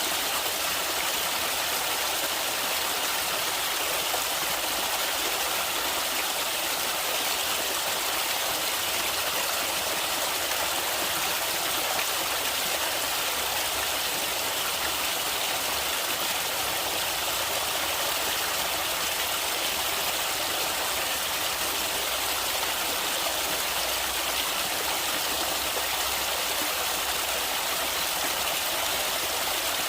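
Running river water, a steady, even rush with no breaks.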